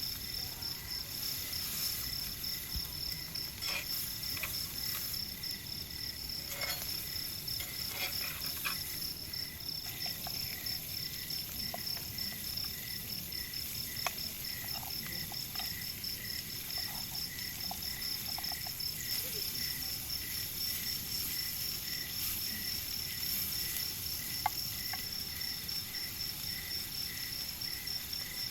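Insects chirping steadily in an even pulsing trill, one high-pitched and one lower, with a few faint scattered ticks.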